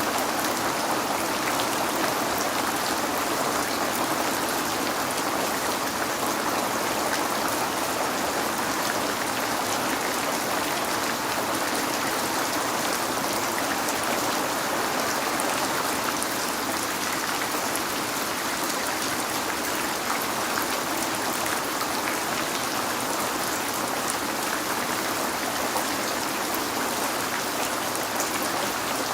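Steady rain falling, a dense, even hiss with fine scattered drop ticks and no thunder.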